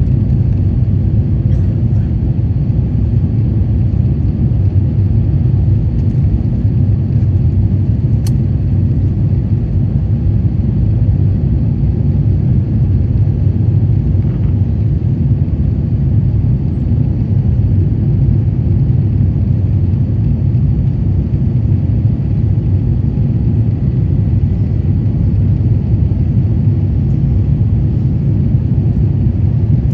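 Steady low rumble of cabin noise inside an Airbus A350-900 airliner, the Rolls-Royce Trent XWB engines and rushing air holding an even level throughout.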